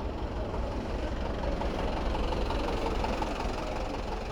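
City traffic noise: a nearby motor vehicle engine running with a steady low rumble, with a faint regular ticking about midway through.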